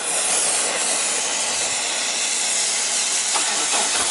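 A steady, even hiss that comes on suddenly and holds at one level.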